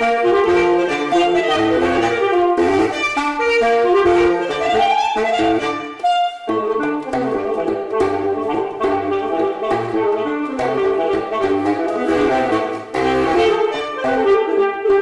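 Music: a saxophone playing a quick jazz melody over a bass line, with a rising run about four seconds in and a brief break about six seconds in.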